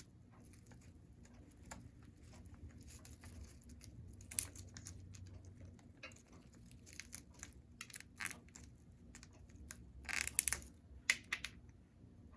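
Congo African grey parrot biting and tearing at a chew toy with its beak: irregular small crunches and clicks, with a louder run of cracks about ten seconds in.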